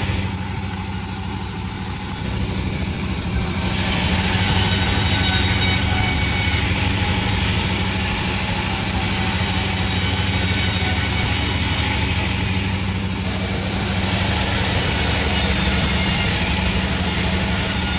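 Panda36 sawmill running steadily, its engine hum under a rough cutting noise. The noise dips for the first few seconds, then comes back louder about three and a half seconds in and holds.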